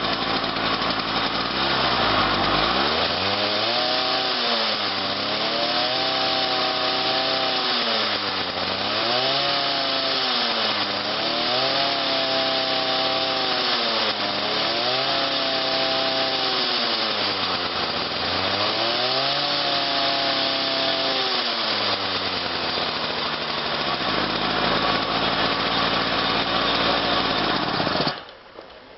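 Cold engine with electronic ignition running at −10 °C, revved up and down over and over, about every three seconds, then settling to a steady run. The sound cuts off suddenly near the end.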